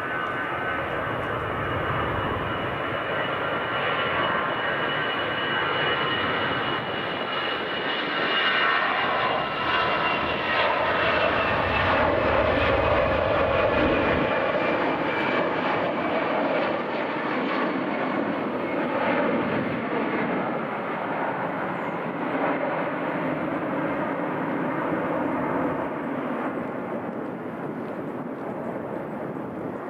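Airbus A320 jet departing, its twin turbofan engines at takeoff power: a steady roar with whining tones that slowly fall in pitch. It is loudest around the middle and eases off near the end.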